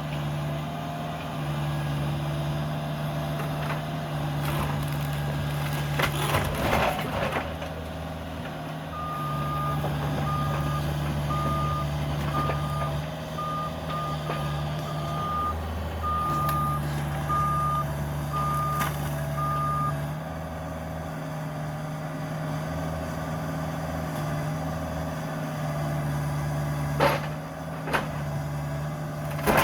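Cat 305 mini excavator's diesel engine running steadily during demolition, with loud crunching of debris about six seconds in and again near the end. From about nine to twenty seconds in, a backup alarm beeps in a string of short beeps at one pitch.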